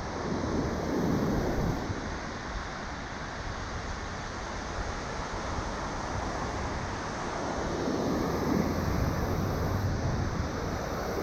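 Shorebreak waves washing up the beach, with wind buffeting the microphone; a wave surges loudest about a second in and another around eight seconds in.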